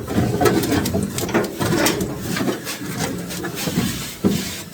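Wiring harness and its plastic clip being wiggled free beside the voltage regulator: a run of irregular clicks, rattles and scrapes, with a sharper knock near the end.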